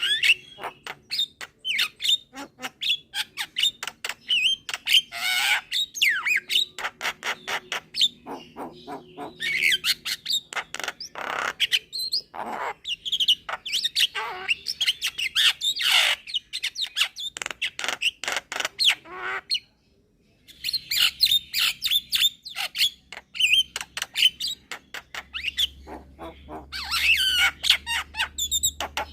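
Young Javan myna (jalak kebo) singing vigorously: rapid runs of clicks and chatter mixed with whistled notes and harsh squawks, with a short break about two-thirds of the way through.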